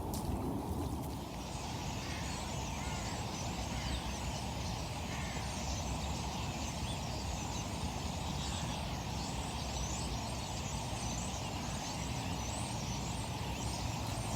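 Steady rushing outdoor background noise with faint bird chirps scattered through it.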